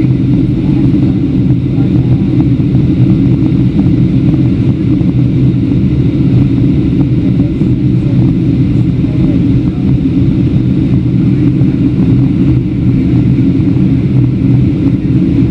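Steady low roar inside the cabin of a Boeing 737-700 in descent: the drone of its two CFM56-7B engines mixed with the rush of air over the fuselage.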